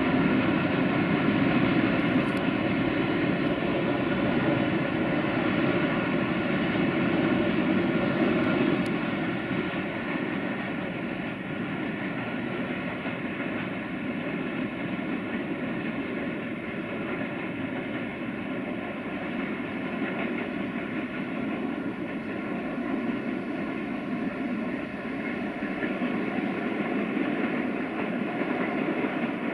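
Distant freight train of tank wagons hauled by an electric locomotive, rolling steadily along the line: a continuous rumble with a layered hum. It eases off about nine seconds in and swells again near the end as the locomotive comes closer.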